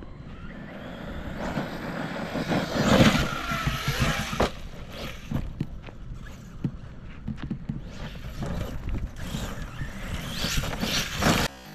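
Arrma Kraton EXB V2 RC monster truck driving hard on dirt: its brushless electric motor whines, rising and falling in pitch with the throttle, over tyre and gravel noise and scattered knocks. It is loudest about three seconds in and again near the end, then cuts off suddenly.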